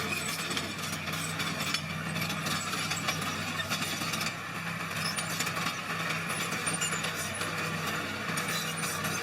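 Small bulldozer's diesel engine running steadily as it pushes crushed stone and soil, with scattered clanks and crunches from the tracks and stone.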